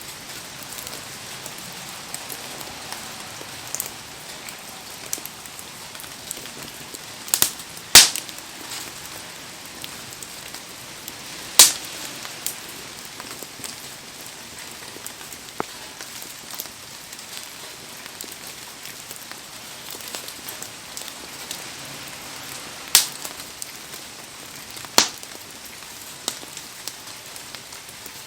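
Heavy rain falling steadily around a wood bonfire, with a handful of sharp pops from the burning wood, the loudest about eight seconds in.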